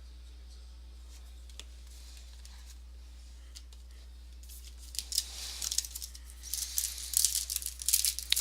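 A trading-card pack's foil wrapper torn open and crinkled, a dense run of crackling rustles that starts about five seconds in, over a steady low hum.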